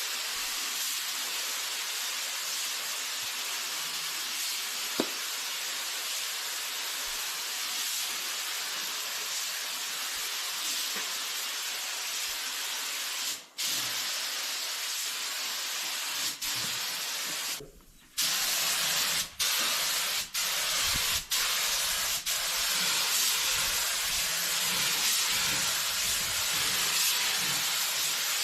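Steady hiss of compressed air from an air tool. It cuts out briefly about halfway through, again for about half a second a little later, then several more quick breaks about a second apart.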